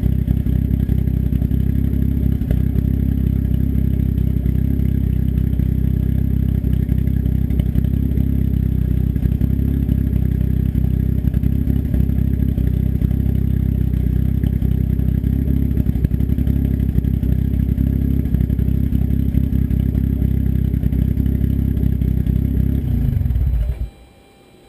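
Turbocharged engine with an S257 turbo and custom cams running steadily through an open dump, a 3-inch turn-down off the downpipe with no muffler. It shuts off near the end and the sound drops away quickly.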